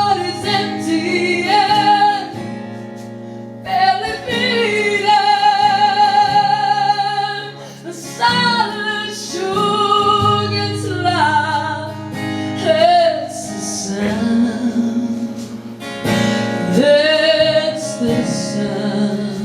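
A woman singing a slow song live with guitar accompaniment, drawing out the words in long sustained notes.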